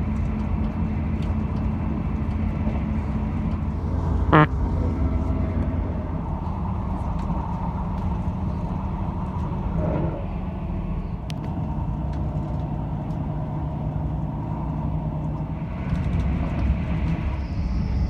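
Passenger train running along the line, heard from inside the carriage: a steady rumble of wheels and engine. A brief sharp pitched squeal or toot sounds about four seconds in.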